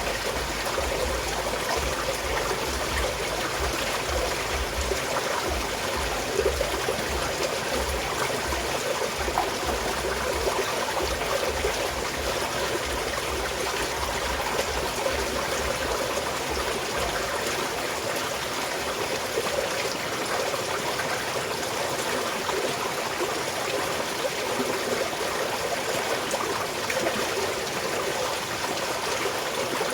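Small mountain stream flowing and trickling steadily. A low rumble underneath dies away about halfway through.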